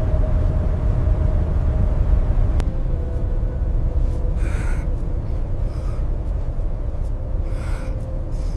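Blizzard wind: a steady low rumble with a faint howling tone, and two short rushes of wind partway through.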